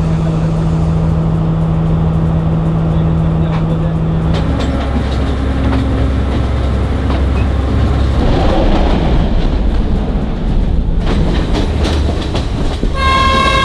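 Diesel passenger train running along the track, a steady engine hum with wheels clattering on the rails. Near the end a horn sounds, one held steady tone.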